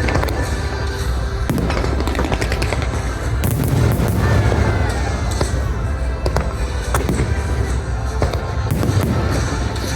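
Aerial fireworks going off in an irregular series of sharp bangs and crackles, with loud music playing throughout.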